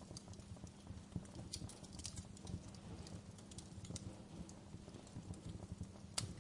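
Wood fire crackling: irregular sharp pops and snaps over a low, steady rumble of burning, with one louder pop near the end.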